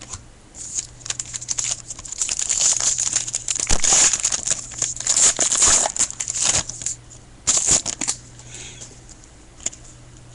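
Wrapper of a 2013 Panini Pinnacle baseball card pack being torn open and crinkled. Dense crackling rustles run for the first several seconds, then a few quieter rustles near the end.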